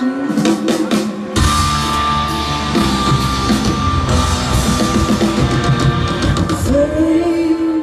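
Rock band playing live, heard from the crowd: a run of drum hits, then the full band with drum kit and guitar coming in loud about a second and a half in, with a long held note near the end.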